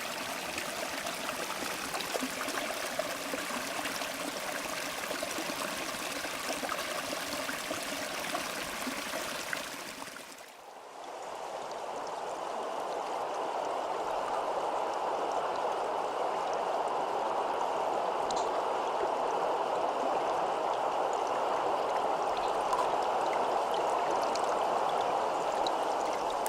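Stream water flowing steadily over rocks. About ten seconds in it dips briefly and a second stream recording fades in, fuller and less hissy in tone.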